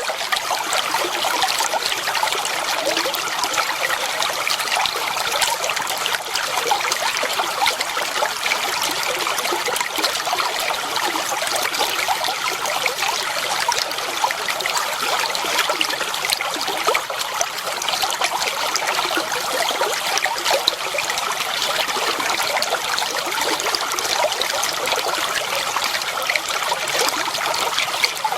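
Clear water flowing and trickling steadily over stones in a shallow stream, a continuous babble of small splashes.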